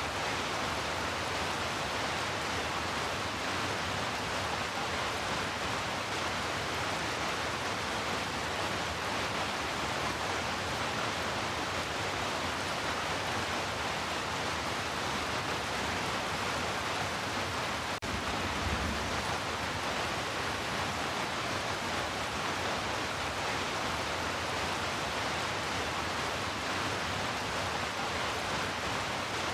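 Heavy rain falling in a steady, even hiss. A brief low thump comes about two-thirds of the way through.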